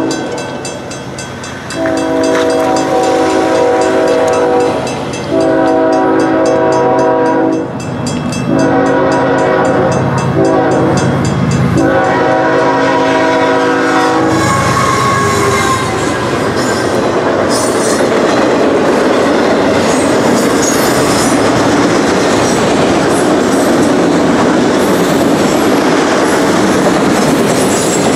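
Freight locomotive's air horn sounding several long blasts over the steady ringing of the grade-crossing bell, the last blast ending about 14 seconds in as the locomotive passes. After that, the train's autorack cars rumble and clatter past on the rails.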